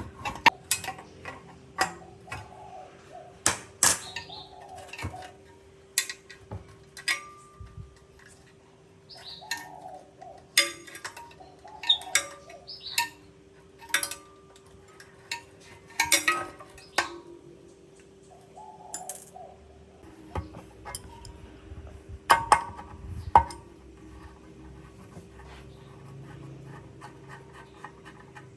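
Irregular clinks and knocks of metal parts and tools being handled, with a steady faint hum behind them.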